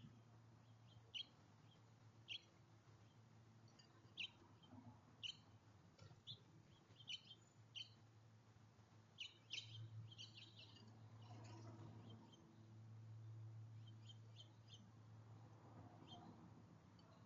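Faint, short bird chirps, scattered roughly once a second, with a quick run of them about halfway through. A low steady hum comes up underneath from about the middle on.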